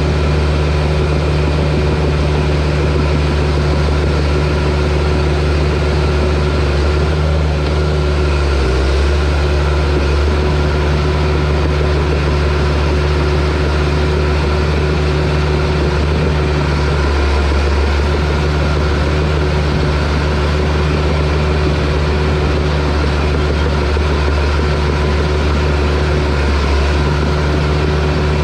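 Bulldozer's diesel engine running steadily, a deep continuous drone with a few brief dips in pitch as the load changes.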